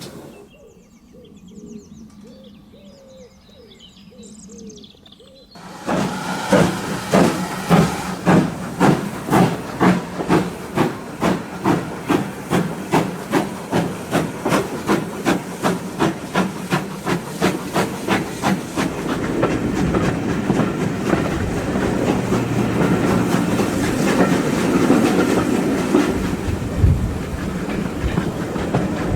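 Steam locomotive No. 9351, a GWR-style 2-6-0, working hard. After a quieter first few seconds its exhaust beats come in suddenly and loudly, quickening steadily as the train gathers speed, then run together into a denser chuffing over rail noise.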